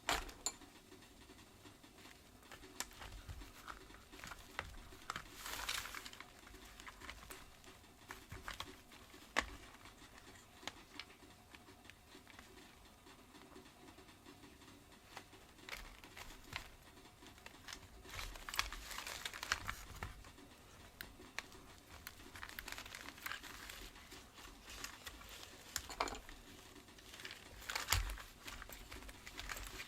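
Hands handling the parts of a vacuum cleaner's power brush head during disassembly or reassembly: scattered faint clicks, taps and short rustles at irregular intervals, with no motor running.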